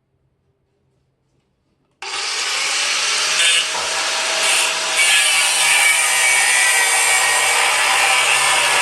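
A power tool starts suddenly about two seconds in and runs steadily with a loud, rough noise, working on metal.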